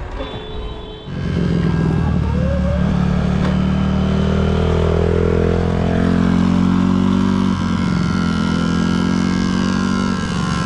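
Dirt bike engine kicking in about a second in and running loudly, its pitch climbing as it revs up, then holding steady with a brief dip in revs about three-quarters of the way through.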